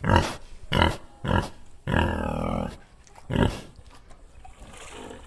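Sow grunting: four short grunts and one longer drawn-out call about two seconds in.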